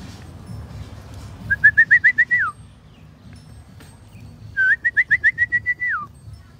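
Two loud whistled bird calls, about three seconds apart, each a quick run of short rising notes that ends in a downward slur.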